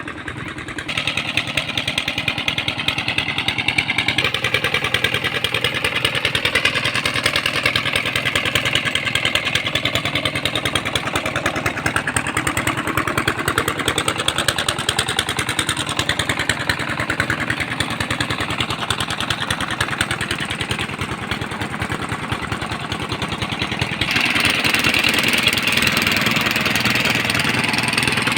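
Tractor engine running under way, its pitch drifting up and down with engine speed. The sound jumps abruptly in loudness and tone about a second in, again about four seconds in, and near the end, where it gets louder.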